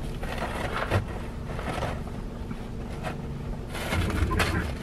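Steady low hum of a car's engine idling, heard from inside the cabin. A few brief soft knocks and rustles come about a second in and again near the end, as things are handled and put away.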